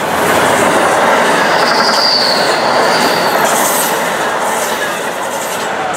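Amtrak Acela Express electric trainset passing close by at speed: a loud, steady rush of wheels on rails, with a short high whine about two seconds in. The sound begins to fade near the end as the last cars go by.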